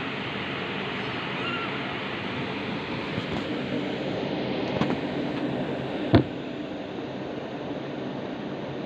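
Steady rushing background noise, like a fan or air moving over the microphone, with a few faint clicks and one sharp click about six seconds in.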